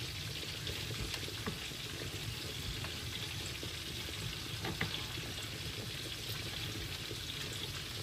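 Duck breasts sizzling steadily as they fry in their own fat in a pan, with a few faint clicks, one about five seconds in.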